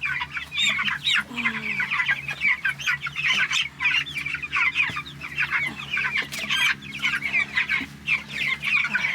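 A flock of young meat chickens peeping and cheeping nonstop, many short high calls overlapping, over a faint steady low hum.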